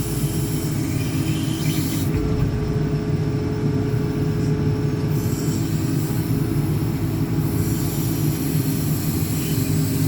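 Diesel engine of a JCB 4CX backhoe loader running steadily under work as the rear backhoe boom operates, a continuous heavy drone; a higher steady whine joins for about three seconds in the middle.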